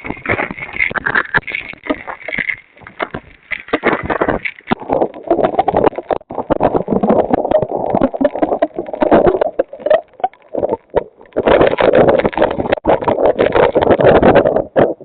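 Hurricane-force wind buffeting a security camera's microphone, rising and falling in gusts, with crackling distortion. It is loudest in the last few seconds.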